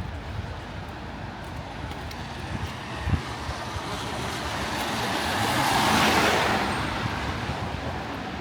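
A car passing on a wet road, the hiss of its tyres swelling to a peak about six seconds in and then fading, over steady street traffic noise. A short low thump about three seconds in.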